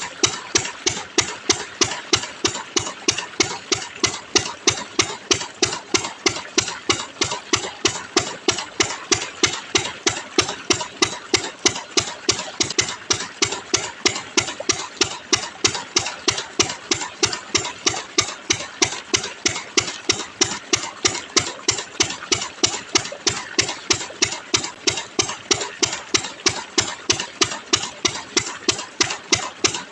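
An engine-like machine running steadily, with a sharp, even knock about three times a second that never varies.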